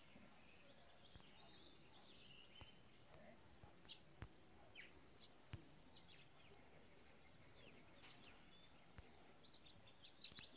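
Faint outdoor birdsong: small birds chirping, with a run of short falling chirps, about two a second, in the second half. A few faint sharp clicks come through.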